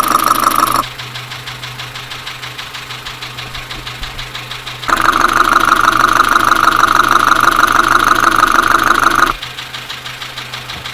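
Dacia Sandero engine idling with a steady, rhythmic knock, heard through a mechanic's stethoscope; the knock is the sign of engine damage. It comes through much louder for the first second and again from about five to nine seconds in.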